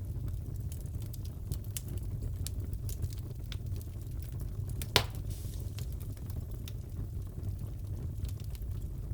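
Fireplace crackling: a steady low rumble of burning with many small crackles, and one sharp, loud pop about five seconds in.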